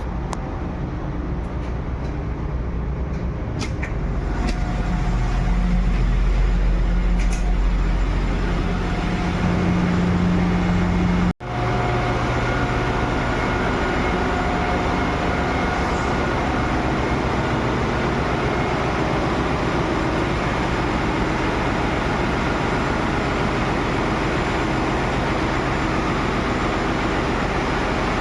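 Steady, loud drone of a ship's engine-room machinery, a heavy low hum under a broad hiss. About eleven seconds in, the sound cuts out for an instant and resumes with more hiss and less low hum.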